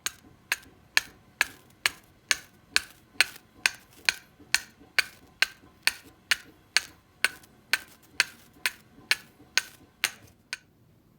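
Flint struck against a freshly hardened, hand-forged fire steel, over and over: about twenty sharp clicks, each with a short ring, about two a second, stopping about ten and a half seconds in. The strikes test whether the hardened steel throws sparks.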